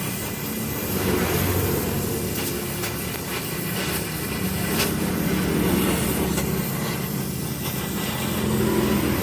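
Mitsubishi Canter truck's engine running through an aftermarket 'wolf-sound' (suara serigala) exhaust, with a steady low hum that swells and eases a few times.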